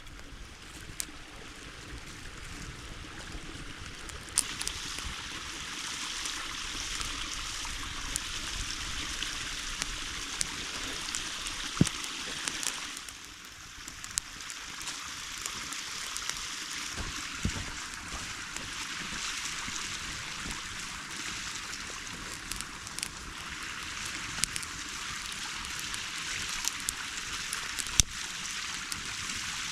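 A creek flowing steadily, with a few sharp clicks scattered over it.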